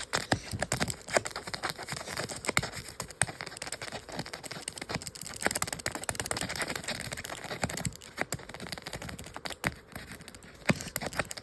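Paper being handled and worked with a small tool: irregular scratching, crinkling and clicking as the 'screws' of a paper phone model are picked at.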